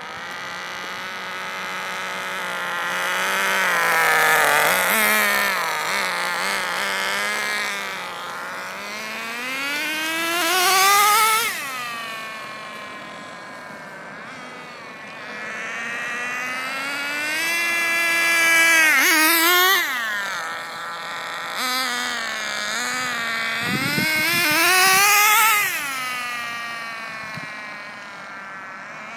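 O.S. .18 nitro engine of an HPI RS4 3 Evo RC car with a THS tuned exhaust, running at high revs as the car is driven. The pitch climbs and falls again and again, with four loud peaks where the car comes close.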